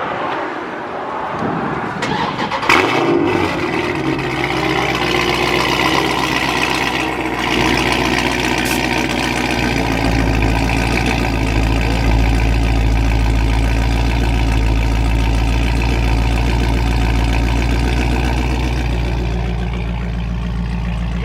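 Dodge Charger Scat Pack's 6.4-litre HEMI V8 with gutted catalytic converters and a mid-muffler delete starting up warm about three seconds in, then running at a loud, deep idle that settles lower about ten seconds in.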